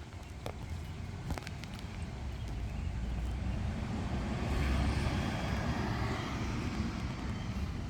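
A road vehicle drives past, its engine and tyre noise swelling to a peak about five seconds in and then fading away.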